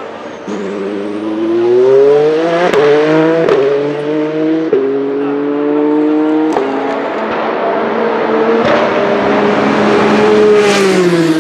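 Toyota TS050 Hybrid's 2.4-litre V6 race engine accelerating hard: the note climbs and snaps through four quick upshifts, each a brief cut and a step down in pitch, then holds high before falling away near the end.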